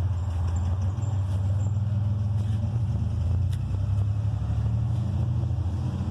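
A motor vehicle's engine idling: a steady low hum that does not change.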